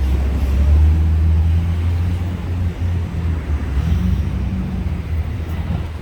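Steady low rumble of street traffic, with a vehicle engine running close by.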